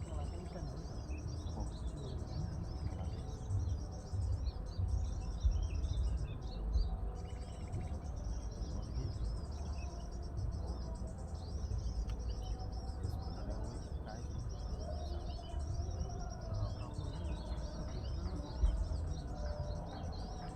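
Small birds chirping and twittering continuously in short, high, repeated notes, over a steady low rumble.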